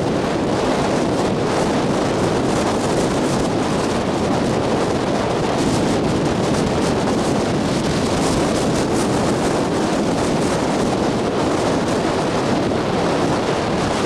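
Strong wind of about 20–25 mph blowing over the microphone, a loud, steady rush of noise.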